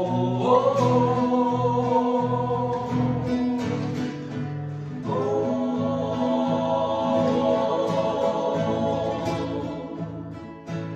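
Song with acoustic guitar accompaniment: singing voices hold long notes without clear words, a new held note starting about five seconds in.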